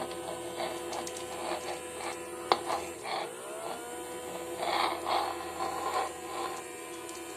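Small battery-powered DC motor and fan of a homemade vacuum cleaner running with a steady whine whose pitch climbs and settles about three seconds in, with plastic scraping and a sharp click as it is worked over a surface.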